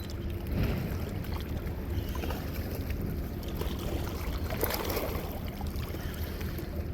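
Steady low rumble of wind and river water on the microphone, with a few faint clicks scattered through it.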